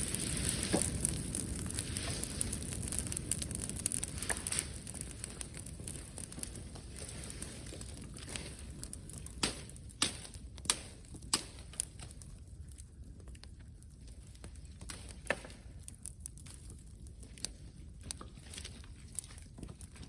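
Wood bonfire crackling, with sharp single pops scattered through, several close together around the middle. A rustling hiss in the first several seconds dies away.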